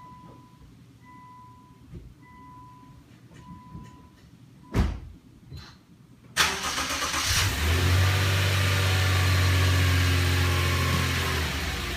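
A car's warning chime beeping steadily, a door shutting about five seconds in, then the BMW 335i's turbocharged straight-six cranking and catching at once and settling into a steady idle that eases down slightly near the end.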